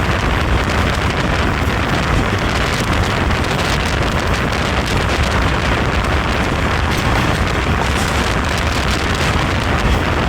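Steady rumble and rush of a moving passenger train heard from on board, with wind buffeting the microphone.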